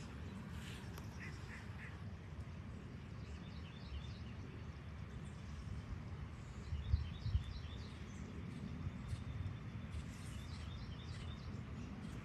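Birds chirping outdoors: several short phrases of quick, high repeated notes a few seconds apart, over a steady low background rumble, with a couple of brief low thumps about seven seconds in.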